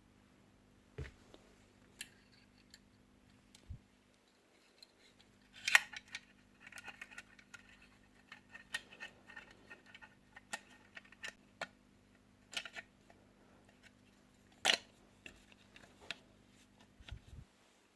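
Scattered clicks and light taps of small hard parts being handled, with two sharper clicks about six and fifteen seconds in and faint rattling and scraping in between. A faint steady hum runs underneath.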